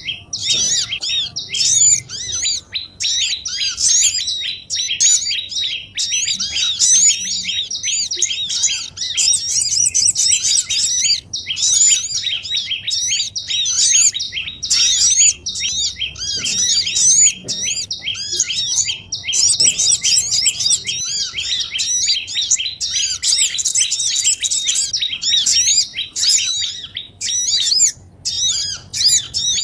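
Dense, busy chorus of small songbirds chirping and twittering without pause: many high, rapid, overlapping notes, like a noisy flock of little birds. This is a bird-lure call track made to draw small wild birds in.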